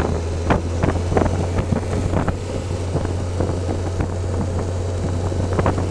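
Motorcycle engine running at a steady speed, a constant low drone, with wind buffeting the microphone in many short crackles.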